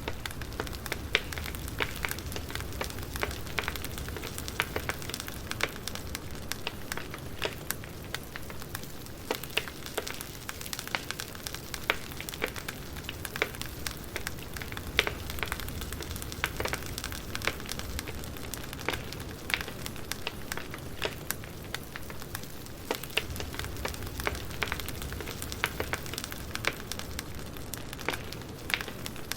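Burning firewood crackling: a dense, irregular run of sharp pops and snaps over a steady low rumble.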